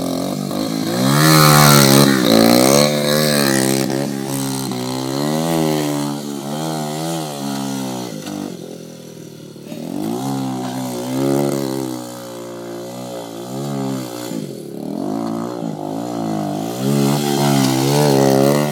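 Dirt bike engine revving up and down repeatedly as it is ridden, the pitch rising and falling with the throttle and dropping back twice to a lower note.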